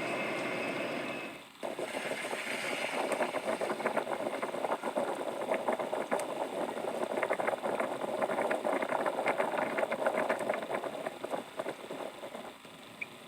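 A vehicle running with a dense, rapid crackling rattle. The sound changes abruptly about a second and a half in.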